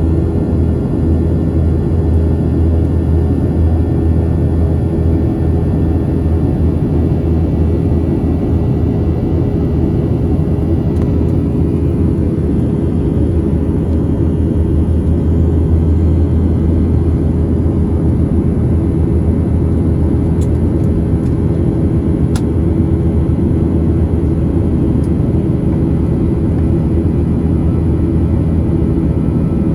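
Steady drone of a Boeing 737-700's CFM56-7B jet engines and airflow heard inside the cabin: a deep, even rumble with a steady hum over it. A couple of faint clicks come about two-thirds of the way through.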